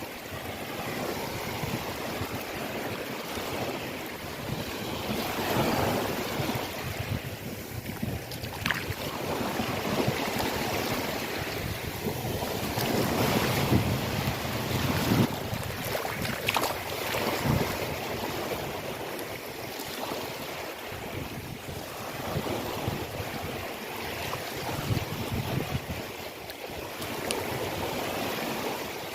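Sea water washing and splashing in waves, the noise swelling and easing every few seconds, with a few short sharp splashes.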